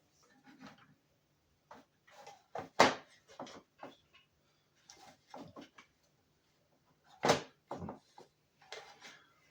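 Irregular clicks and knocks of small parts and tools being handled and set down during work on an instrument cluster, with two louder knocks about three and seven seconds in.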